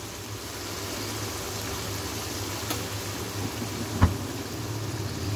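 Mutton keema sizzling steadily in oil in a wok, an even hiss like light rain over a low hum, with one short tap about four seconds in.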